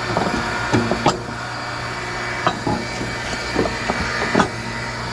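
Steel plate being laid down and shifted into place on a hydraulic log splitter: a series of short clanks and knocks, some with a brief metallic ring, over a steady low hum.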